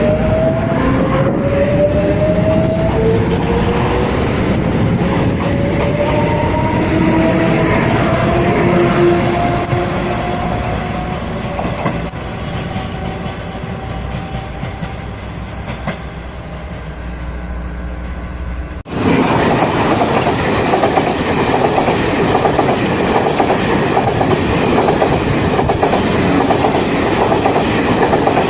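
Taiwan Railways train sounds. First a train pulls away with a whine that slowly rises in pitch over its running rumble, fading over the following seconds. About two-thirds of the way through there is an abrupt cut to a louder, steady train rumble with wheel clatter on the rails.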